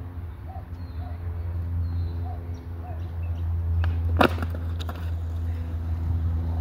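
Skateboard wheels rolling over concrete with a steady low rumble, and one sharp clack of the board about four seconds in.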